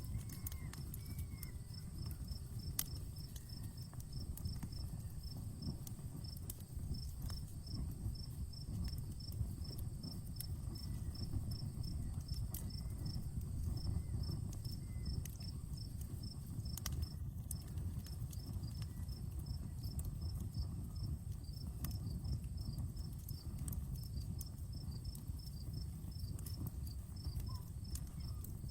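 Campfire crackling, with sharp pops scattered over a low steady rush of burning flames. A cricket chirps in a quick, even pulse, about five chirps a second, with short breaks.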